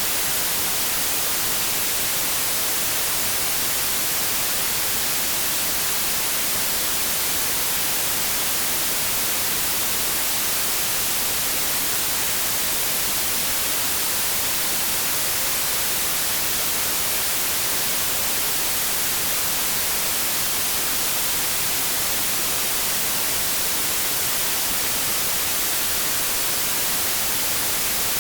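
Continuous synthetic white noise: a steady, even hiss, strongest in the high frequencies, with no change throughout.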